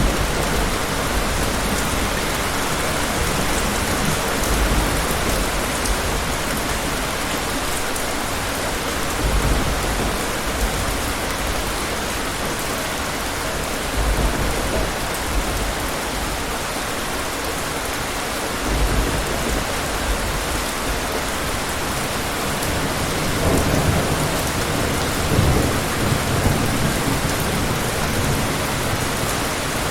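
Steady heavy rain falling, with low rumbles of distant thunder rolling in every few seconds, the longest stretch of them in the last third.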